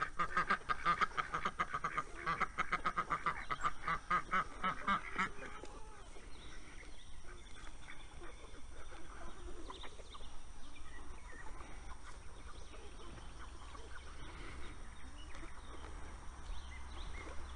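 Domestic ducks quacking in a fast, continuous run of calls while feeding; the quacking stops about five seconds in, leaving only fainter scattered sounds from the flock.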